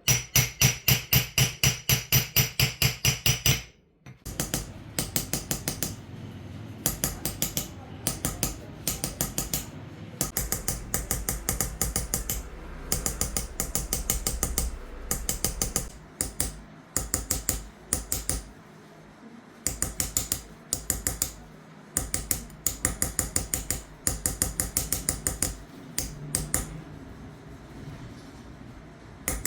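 Small hammer tapping a steel engraving chisel into a silver dish. It starts with a fast, even run of loud, ringing taps for the first few seconds, then goes on with quieter taps in short rapid runs.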